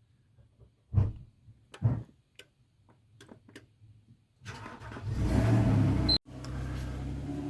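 SWS electric garage door's drive unit: two clicks as the solenoid actuates, then two long buzzes, the first cutting off sharply just before the second begins, while the door stays put. This is the fault signal of a door that tries to engage and immediately stops.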